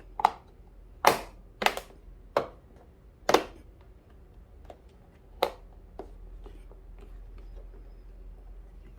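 Plastic control panel of a camping fridge being pressed and snapped into its housing: about six sharp clicks and knocks over the first five seconds or so. A faint steady hum follows.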